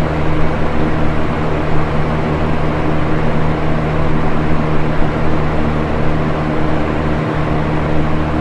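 Box fan running steadily: an even whoosh of moving air over a constant low motor hum.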